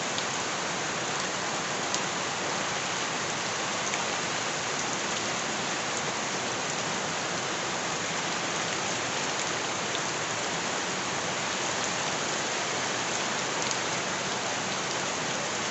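Steady rain falling, an even hiss with an occasional sharper tick of a single drop.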